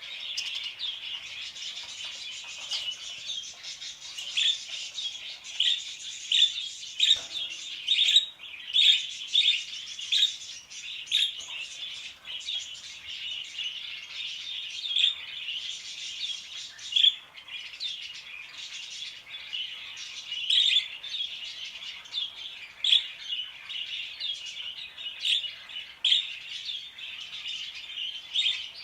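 Small parakeets and budgerigars chattering together: a dense, continuous stream of many short, high chirps overlapping, with no pause.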